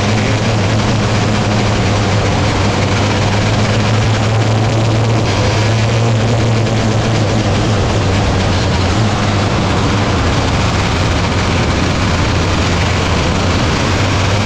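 Dirt-track race car engines running, heard as a loud, steady drone with a constant low tone.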